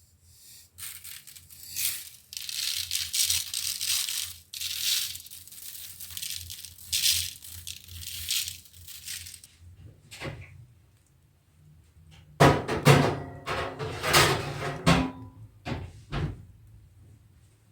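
Kitchen food-preparation handling noises. For several seconds there is hissy scraping and rustling, then a louder burst of clattering knocks about two-thirds of the way through.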